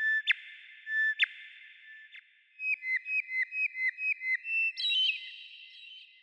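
A songbird's clear whistled song: two long held notes, then a quick run of about nine short repeated notes at roughly four a second, ending on a higher, louder note that fades away.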